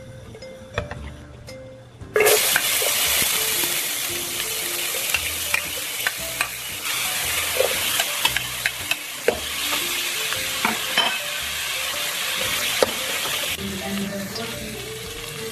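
Diced pork with onion and garlic dropped into hot oil in a pot, setting off a sudden loud sizzle about two seconds in that carries on while it is stirred, with scattered clicks of the utensil against the pot. The sizzle eases slightly near the end.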